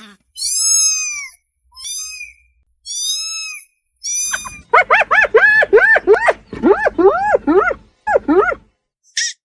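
An animal calling: four separate high-pitched calls, then from about halfway a quick run of shorter, rising-and-falling calls, about four a second.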